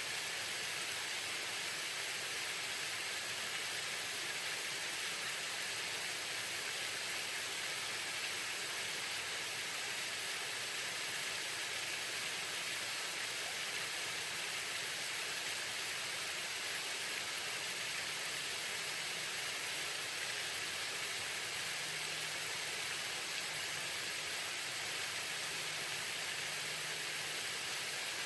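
Waterfall: water falling and splashing as a steady, unbroken rushing hiss.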